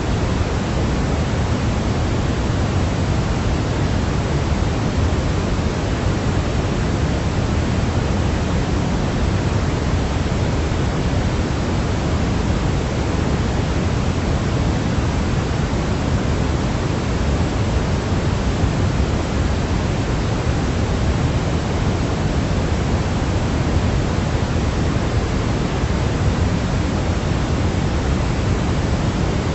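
Steady sleep-aid white noise, an even hiss with its weight in the low end, unchanging throughout.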